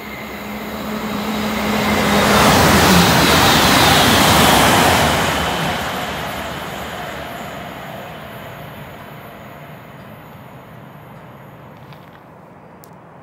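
A train passing through the station at speed: its rumble and rail noise swell to a peak a few seconds in, with a whine that falls in pitch as it goes by, then fade slowly away.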